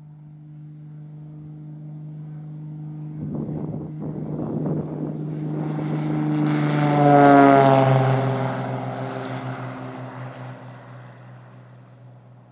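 Single-engine Beechcraft Bonanza's piston engine and propeller at takeoff power as it passes the camera, growing louder to a peak about seven seconds in, then dropping in pitch and fading as it climbs away.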